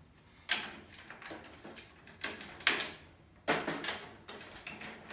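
Sharp metallic clicks and knocks as a drum key turns the tension rods of a CB700 snare drum, tightening the rim down over the new head; a few louder knocks stand out among lighter clicks.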